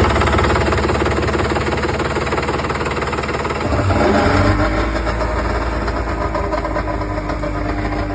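1998 Kawasaki 1100 ZXI jet ski's three-cylinder two-stroke engine running just after starting, its note changing about four seconds in.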